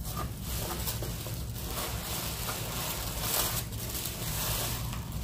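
Rustling and crinkling of packaging or wrapping being handled, with small clicks, a little louder about three and a half seconds in.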